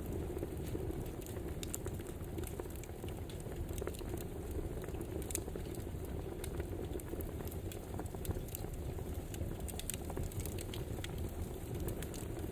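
Campfire burning, with frequent sharp crackles and pops scattered irregularly over a steady low rush.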